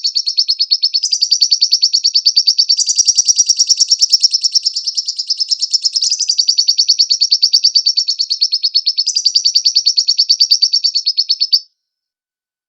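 Lovebird singing a long, rapid chattering trill of sharp high notes, many to the second, shifting slightly in pitch every few seconds and cutting off suddenly near the end.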